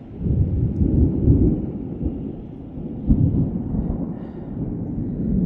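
Thunder rumbling low and loud, swelling in the first second, with a sudden fresh clap about three seconds in.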